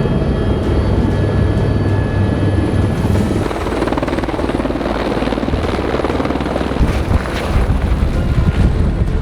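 Helicopter rotor and turbine noise, loud and continuous, with the rapid chop of the main rotor blades; the low rumble shifts a few seconds in.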